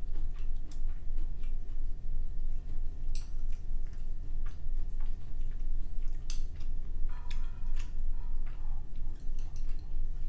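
Close-miked chewing of food by a person eating, with scattered sharp wet mouth clicks.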